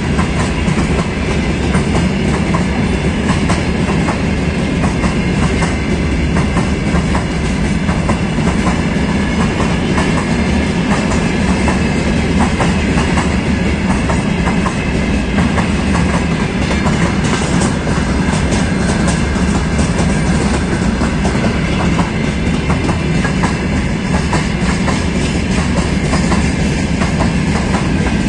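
Freight train's open gondola wagons rolling past close by, the wheels clattering steadily over the rail joints over a continuous low rumble.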